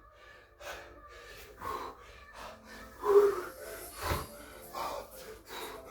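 A person breathing hard between exercise reps: short, forceful gasping breaths in and out, with a single thump about four seconds in.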